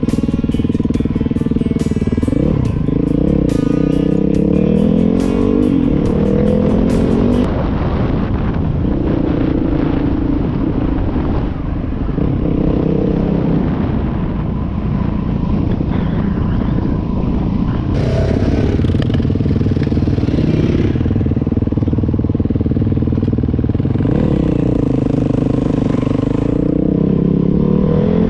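Yamaha WR450F's single-cylinder four-stroke engine riding under load, its pitch climbing again and again as it revs up through the gears and easing back between.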